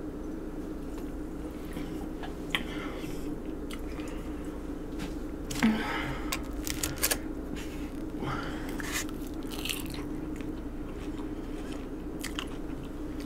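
Close-miked eating: chewing and biting into chicken wings, with a few short crackles and clicks as a plastic fork picks through foil-lined takeout boxes, over a steady low hum.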